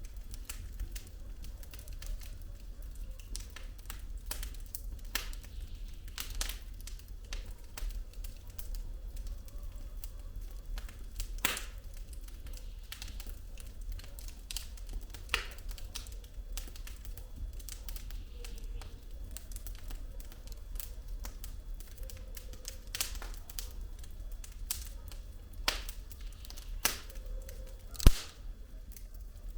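Burning firewood in a fireplace crackling: irregular sharp pops and snaps over a low steady rumble, with one loud pop near the end.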